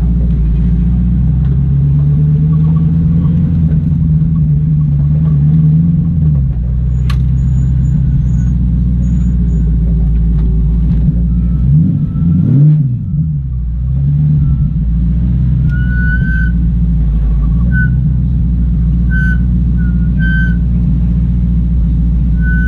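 Factory Five Racing Daytona Coupe's engine running steadily, with a quick drop and rise in engine pitch about halfway through. Faint short high chirps come in the later part.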